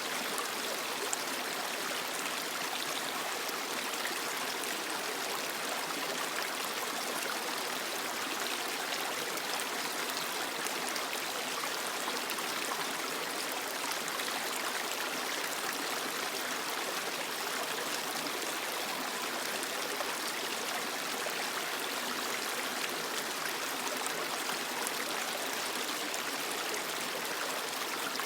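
A creek running steadily over rocks, its water splashing and trickling.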